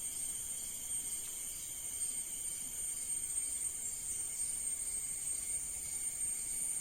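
Steady, high-pitched insect buzzing, several constant tones held without a break.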